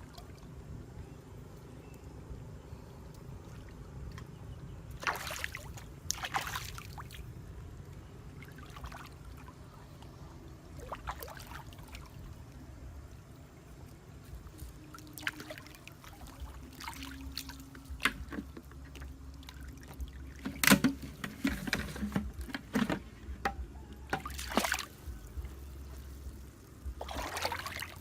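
Water splashing and trickling in short irregular bursts over a low steady background rumble.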